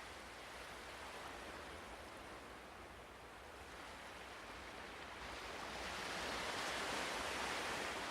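Ocean waves washing on a shore, a soft steady rush with one wave swelling louder about six seconds in.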